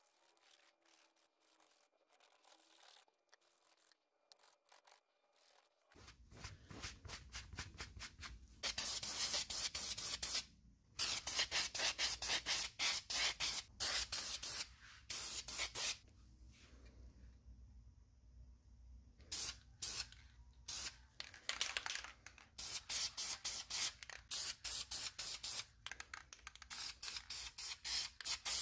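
Aerosol spray paint can hissing in many short, rapid bursts, beginning a few seconds in, with a few longer hisses between quieter gaps.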